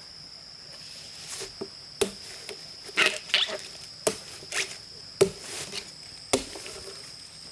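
Chopping with a blade, five sharp strokes about a second apart, some followed by short rustling, most likely cutting bamboo shoots. A steady high-pitched insect buzz runs underneath.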